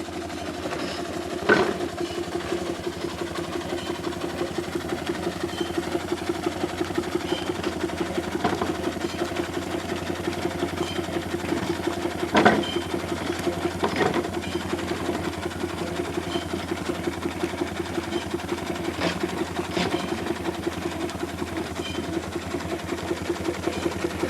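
4-inch scale Burrell steam traction engine running along with a quick, even beat, and a few sharp knocks now and then.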